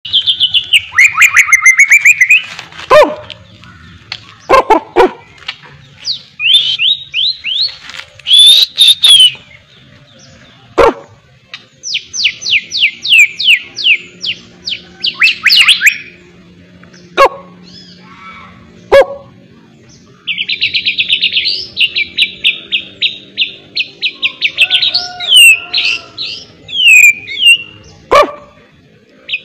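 White-rumped shama (murai batu) singing in full, frequent song: long runs of rapidly repeated whistled notes and trills, broken by sharp clicking notes and short calls.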